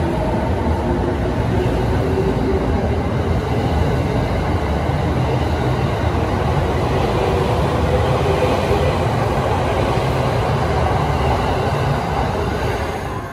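JR E217 series electric multiple unit running past along the platform: a loud, steady rumble of wheels on rail and car noise, with faint motor whine tones in the first few seconds, easing off slightly near the end.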